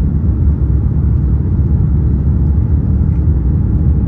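Steady low rumble of an Airbus A350-900's Rolls-Royce Trent XWB engines and airflow, heard from inside the economy cabin.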